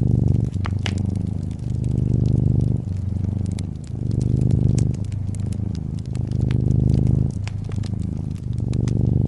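A cat purring: a steady low rumble that swells and fades about every two seconds. Over it, a fireplace fire crackles with scattered small pops.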